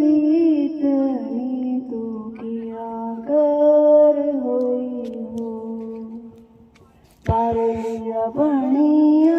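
A woman singing long, held, wordless opening notes of a Pahari folk song, with slow bends in pitch. The singing breaks off briefly about seven seconds in and then resumes.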